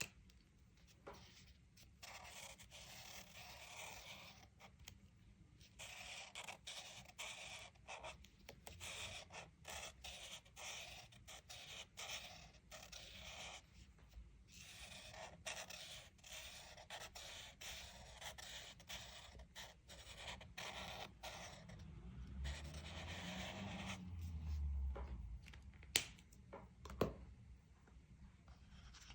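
Crayon scratching across a coloring-book page, scribbling in several stretches of a few seconds with short pauses between. Two sharp clicks come near the end.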